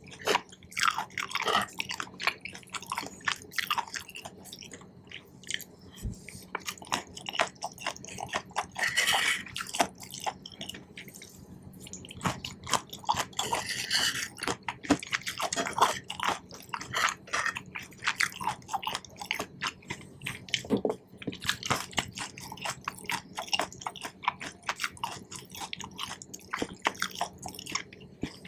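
Close-miked chewing of Korean cheese corn (sweet corn in melted cheese): a dense, irregular run of small mouth clicks and chews.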